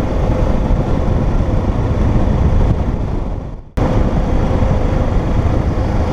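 Wind rush and motorcycle engine noise heard while riding on the road, a steady low rumble with a faint steady hum. A little past halfway it fades out briefly and then cuts straight back in.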